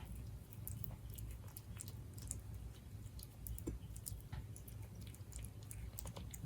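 Siberian cat chewing its food, a run of small irregular crunches and clicks.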